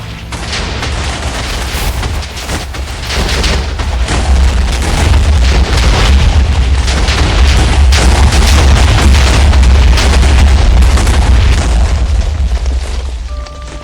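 Explosion: a sudden start, then a long, deep, crackling rumble that builds to its loudest in the middle and dies down near the end.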